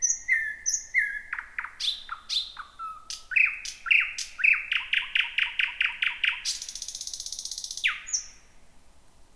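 Thrush nightingale singing at night: clear whistled notes, then sharp clicking notes repeated about four or five a second, ending in a dry, buzzy rattle. The phrase stops about a second before the end.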